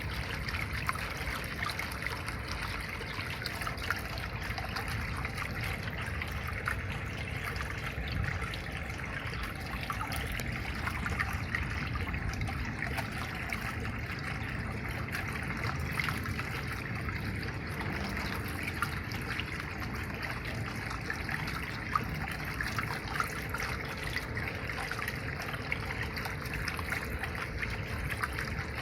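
Water trickling steadily, with many small splashes and ticks.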